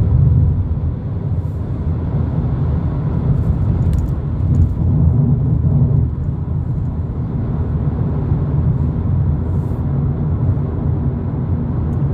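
Steady low engine and road rumble from a 2022 Volkswagen Polo GTI, a 2.0-litre turbo four-cylinder, being driven.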